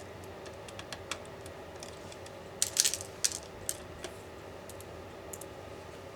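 Light metallic clicks and taps of small tools and parts being handled on a work surface during laptop disassembly. A quick cluster of sharp clicks a little before the middle is the loudest, with scattered lighter ticks around it and a faint steady hum underneath.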